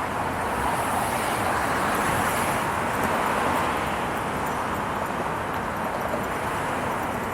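Steady rushing road-traffic noise, swelling a little in the first few seconds and then easing off.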